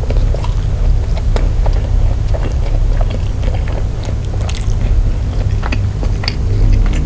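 Close-miked chewing and mouth sounds of a person eating rice and grilled chicken by hand, many small wet clicks over a steady low rumble. Background music comes in near the end.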